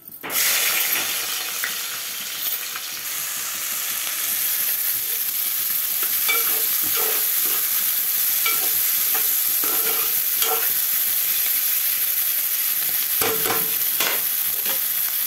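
Chopped onions and green chillies dropped into hot oil in a metal pot, bursting into a loud sizzle a fraction of a second in, then frying with a steady hiss. A slotted spatula stirs and scrapes against the pot now and then.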